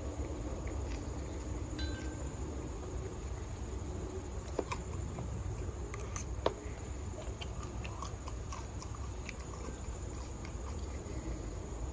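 A person chewing a mouthful of creamy tuna salad, with soft wet mouth clicks and a few sharper clicks, over a steady low hum and a faint high whine.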